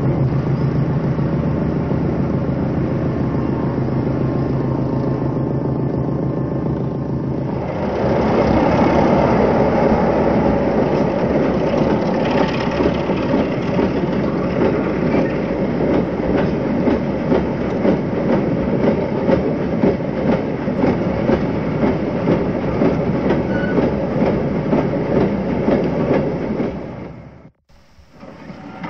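A train: first a steady low running hum, then, about 8 seconds in, louder, with the wheels clattering rhythmically over the rail joints. The sound cuts out briefly near the end.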